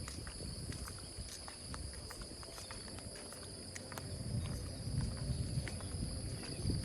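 Gentle rain, with scattered drops ticking irregularly, over a steady high-pitched chorus of insects. A low rumble grows louder in the second half.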